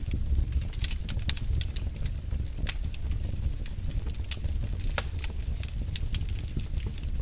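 Wood fire burning in a fireplace, crackling, with irregular sharp pops over a steady low rumble of the flames.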